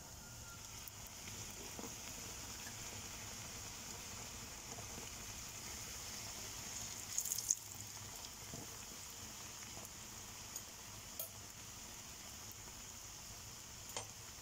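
Pieces of pişi dough sizzling steadily as they fry in shallow oil in a pan. About seven seconds in there is a short burst of clinks as a fork turns them over against the pan, with a few single light ticks later on.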